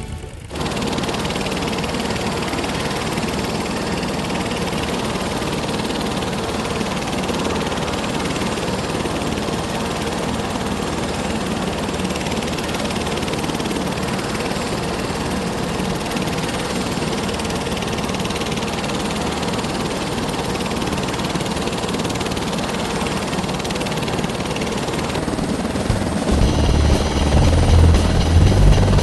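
A light aircraft's engine and propeller running steadily, growing louder and deeper near the end.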